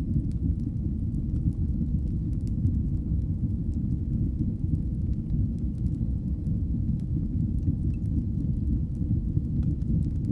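Fireplace wood fire burning with a steady low rumble and scattered faint crackles.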